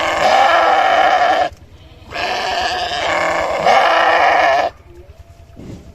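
A sheep bleating twice in long, loud calls, the second longer than the first.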